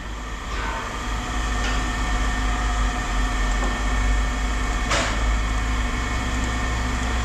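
Engine running steadily with a low rumble, and a single sharp knock about five seconds in.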